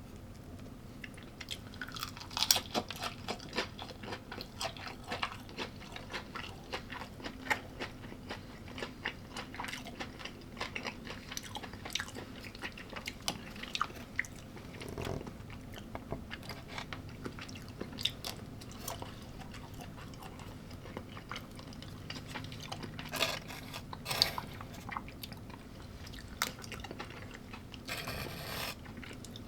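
A person biting and chewing crunchy food close to the microphone: irregular crunches and mouth clicks, with louder bites about two seconds in and again near the end.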